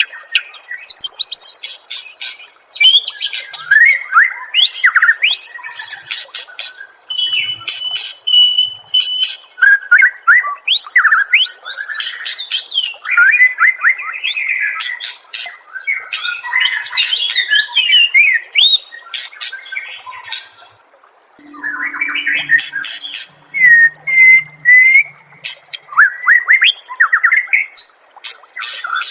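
White-rumped shama (murai batu) singing a long, varied song of fast sliding notes, sharp clicks and chatter, with a held clear whistle about a quarter of the way in and a short pause about two-thirds through.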